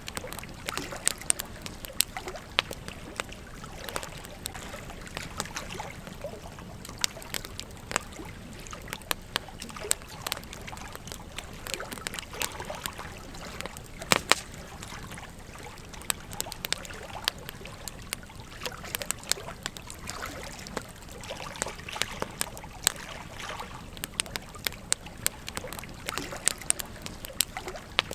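Campfire crackling with irregular sharp pops, several a second, over the steady trickle of a gentle stream.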